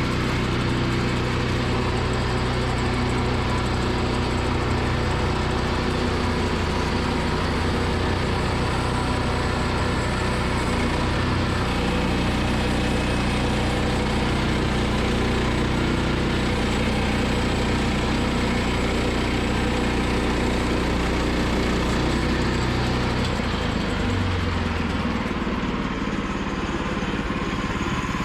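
Woodland Mills portable bandsaw mill running, its gas engine working steadily as the band blade cuts through a large log. The engine note changes about 23 seconds in.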